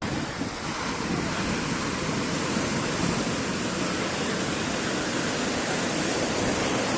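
Sea surf breaking and washing on a beach, a continuous even noise at a steady level.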